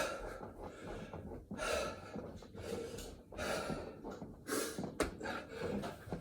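A man gasping and panting hard, several heavy breaths a second or so apart, winded from exertion partway through a set of burpees.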